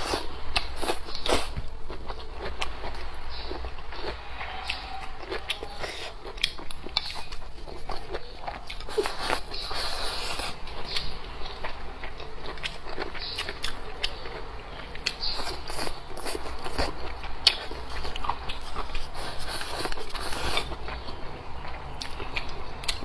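Close-miked chewing and mouth sounds of a person eating leafy greens and braised pork trotter: a continual run of small wet clicks and crunches.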